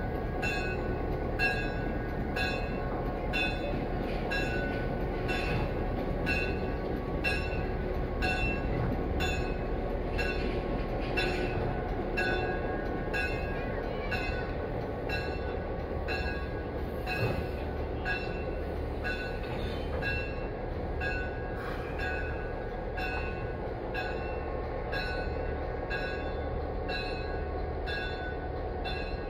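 Steady hum of a railway electric locomotive and turntable machinery, with a regular high-pitched beeping pulse about three times every two seconds, like a warning signal.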